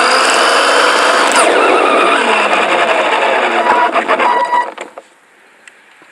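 RC car's motor whining at speed with rough road and tyre noise, recorded from on board the car. It cuts off about a second before the end, leaving only faint background.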